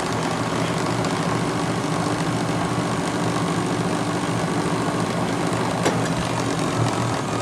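Hardinge HC-T chucker lathe spindle running steadily at its third, top speed, with a steady hum and a single click about six seconds in. Part of the running noise comes from the collet closer at the back of the spindle.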